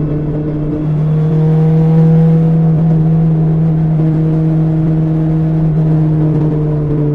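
BMW S1000XR inline-four engine running through an Akrapovic exhaust while riding, a steady note that rises and gets louder about a second in as the throttle opens, then holds and eases off slightly near the end.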